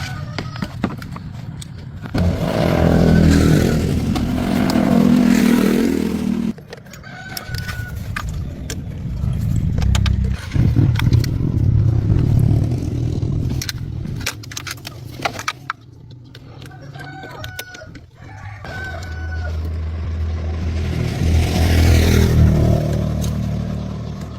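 An old sedan's engine running, its rumble swelling loudly twice as it is revved, with chickens clucking and a rooster crowing in the background.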